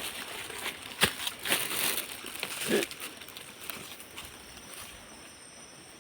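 Rustling and crunching in dry leaves and brush, with a few sharp clicks; the handling noise dies down after about three seconds.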